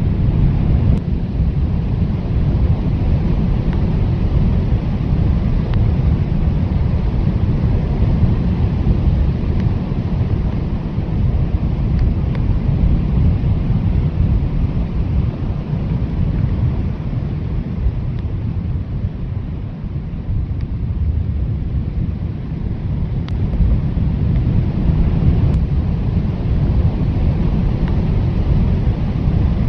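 Strong blizzard wind blowing steadily, a deep low rumble that surges and eases slightly in gusts.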